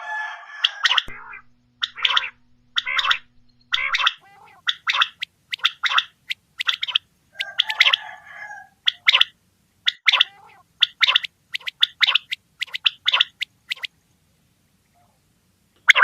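Common quail calling: short, sharp notes in quick clusters, repeated about once a second, with a rougher, buzzier call near the start and another midway. The calling stops for a couple of seconds near the end.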